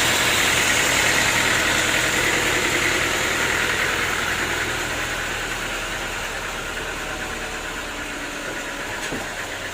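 Sawmill machinery running steadily: a dense mechanical whir with a fine rapid flutter that slowly grows quieter over several seconds.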